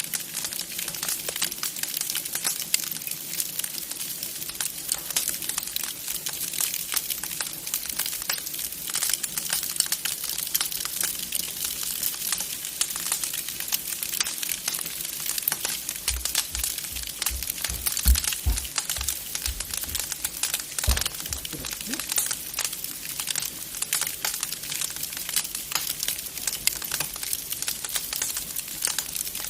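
Wood fire crackling in a fireplace: a dense, continuous run of small pops and snaps, with a few soft low thumps a little past the middle.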